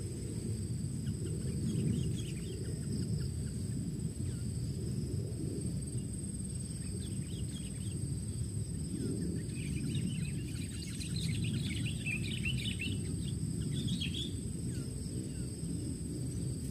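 Birds chirping in short scattered notes, with a dense flurry about two-thirds of the way through, over a steady high insect drone and a constant low rumbling noise.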